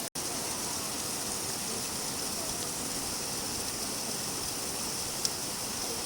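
Steady rain falling as an even hiss, cutting out for an instant just after the start; a single sharp tick about five seconds in.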